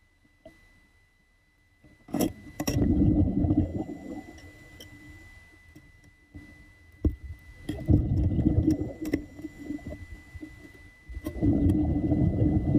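Muffled water churning close to the microphone in three surges of a second or two each, with a few sharp clicks between them.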